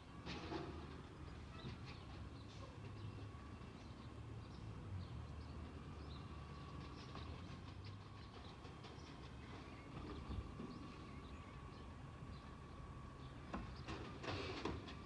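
Peterbilt 320 garbage truck with an Amrep front-loader body running, its engine rumbling low under a thin steady hydraulic whine as the packer works the load. Sharp metal clanks come just after the start and again in a cluster near the end.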